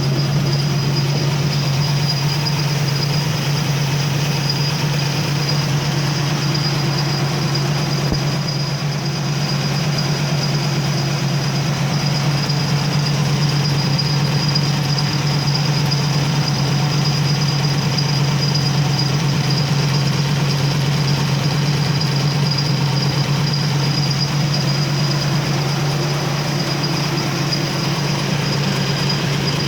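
A 1976 Aston Martin V8's 5.3-litre quad-cam V8 idling steadily, with no revving.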